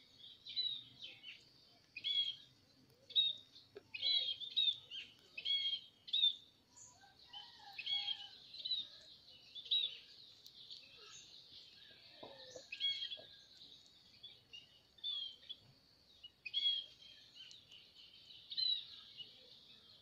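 Small songbirds chirping: clusters of short, high chirps come every second or two, loudest between about two and ten seconds in, over a steady faint high hiss.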